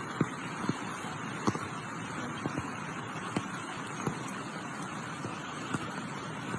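Steady rush of fast-flowing floodwater, with scattered sharp knocks every second or so.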